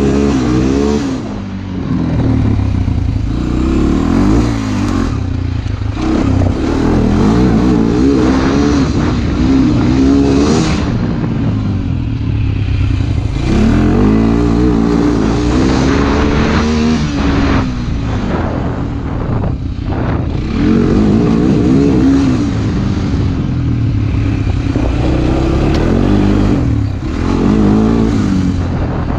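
A motorcycle being ridden, its engine repeatedly rising in pitch under acceleration through the gears, dropping at each shift or roll-off, with steady wind noise on the microphone.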